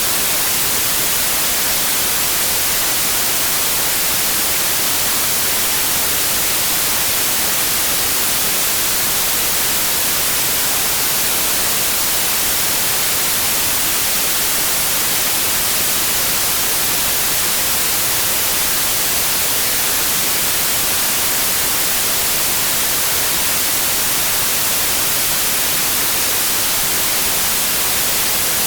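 Steady white noise: an even, unchanging hiss across the whole range, brightest in the treble, with no tones or breaks.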